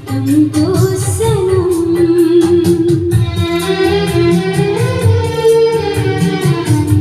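A song playing on a Denon record player: a wavering sung melody over a steady drum beat, with other instruments underneath.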